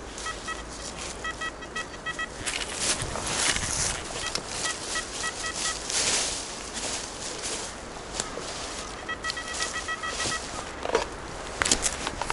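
Metal detector beeping in quick, evenly repeated pulses, three runs of about two seconds each, signalling metal in the ground. Leaves and soil rustle and crunch throughout.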